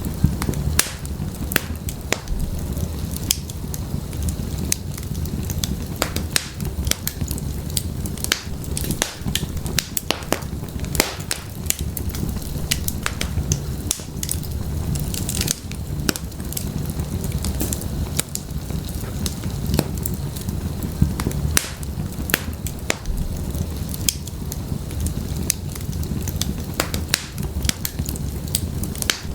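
Wood fire in a fireplace crackling, with a steady low rumble of the flames and frequent irregular sharp pops and snaps.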